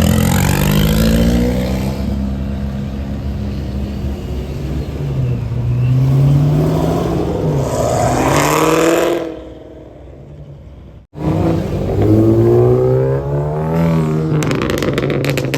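Cars accelerating hard as they pull out, engine pitch climbing and dropping with the revs. The sound fades about nine seconds in and cuts off abruptly, then another car accelerates, with a quick run of sharp crackles near the end.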